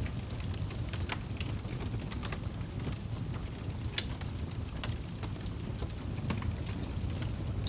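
Wood fire crackling in a fireplace: irregular sharp pops and snaps over a steady low rumble, the loudest pop about four seconds in.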